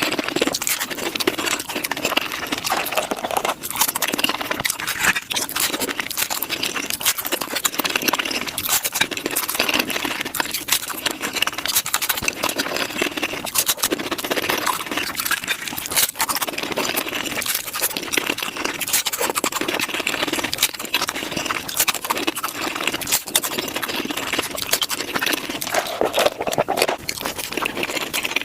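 Close-miked chewing and crunching of tacos, sped up five times, heard as a dense, unbroken stream of rapid clicks and crackles.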